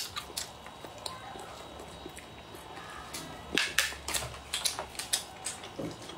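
Close-miked chewing of food, with a string of crisp crunches and wet mouth clicks, thickest a little past the middle.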